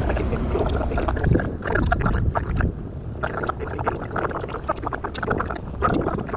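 A cruise boat underway, with wind on the microphone: a steady low rumble under choppy, garbled sounds.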